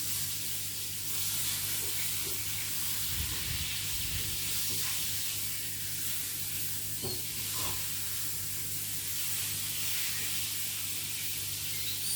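Vegetables with garlic and soy sauce frying in a hot pan, a steady sizzle, with a low hum underneath and a few faint knocks.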